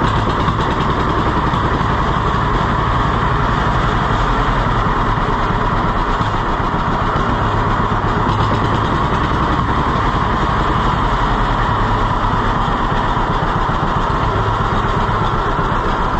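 Tractor engine running steadily with an even pulse, its carburetor freshly adjusted.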